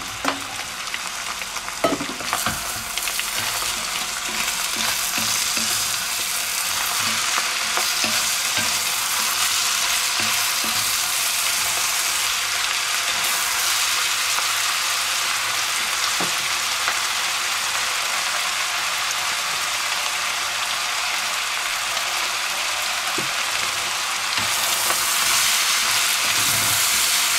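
Ground meat, onions and butter vegetables sizzling in a hot enamelled cast-iron cocotte while being stirred with a wooden spatula: a steady frying hiss, with a few knocks of the spatula against the pot. The sizzle gets a little louder near the end.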